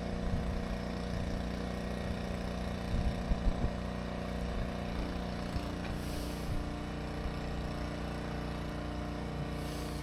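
Engine of an 8 gpm pressure washer rig running steadily at idle, with a few light knocks about three seconds in.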